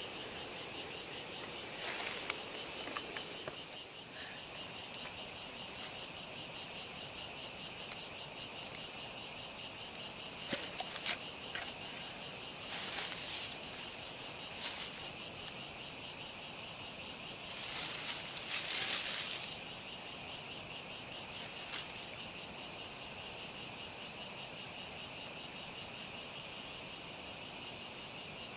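Dense, steady chorus of forest insects, a shrill high-pitched pulsing buzz, with a few brief clicks over it.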